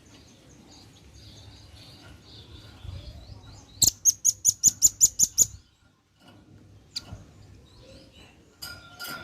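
Velvet-fronted nuthatch calling: faint high chirps, then a loud, rapid run of about nine sharp, high notes in under two seconds, then a few more calls near the end.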